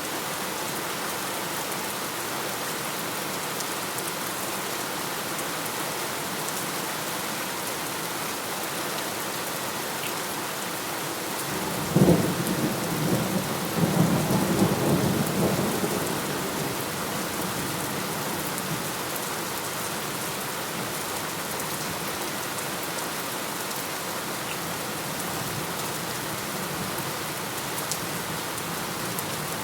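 Steady heavy rain falling, with a single clap of thunder about twelve seconds in: a sharp crack followed by a rolling rumble that fades over several seconds.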